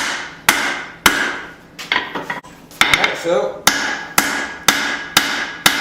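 Hammer blows on a hot steel hatchet head on an anvil, about two strikes a second, each ringing briefly. The blows pause near the middle, with a few lighter taps, then resume.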